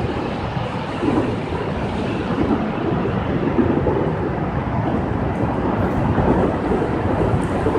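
Heavy rain: a loud, steady rushing noise, deepest in the low end, that swells a little every second or so.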